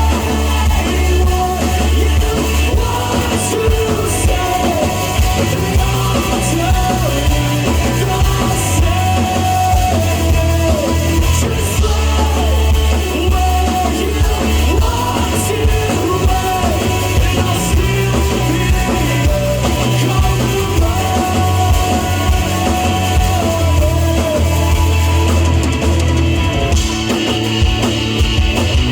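Live rock band playing a song: a singer over drum kit and bass.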